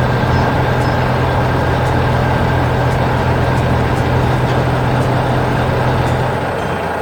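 Heavy vehicle engine running steadily with a constant low hum, fading out near the end.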